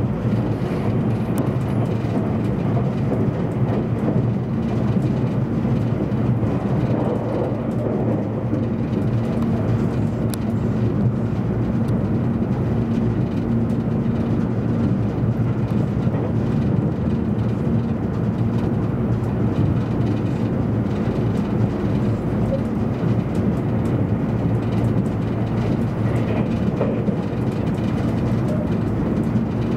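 Steady running noise inside the passenger car of a JR East E257 series 500 limited express train travelling at speed: a constant low rumble and hum with no change in level.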